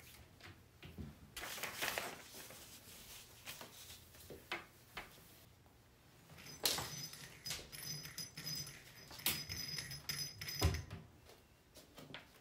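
Handling noises: a string of sharp clicks and knocks with rustling between them, the loudest knocks about seven, nine and a half and ten and a half seconds in.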